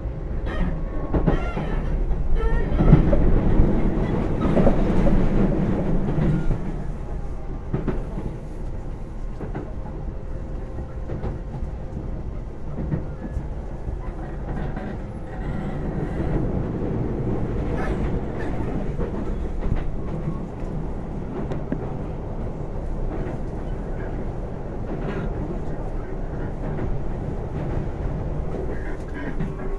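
Cabin of a Keisei AE100 electric train running at speed: a steady rumble of wheels on rail with scattered clicks from rail joints. It is loudest for a few seconds near the start, then settles to a more even level.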